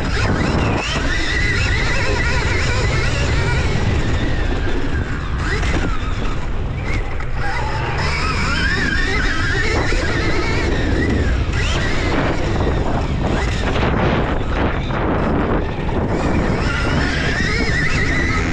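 Dirt bike ridden on a motocross track, with heavy wind buffeting on the microphone. Under it a whine rises and falls with the throttle, and knocks and thuds come through from the ride over the bumps.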